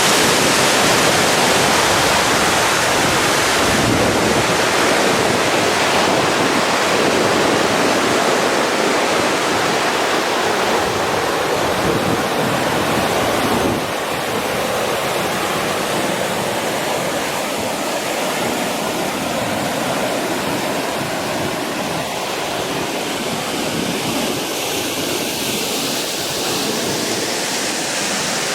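Steady loud rush of a waterfall, full and even; it drops suddenly to a slightly lower level about halfway through.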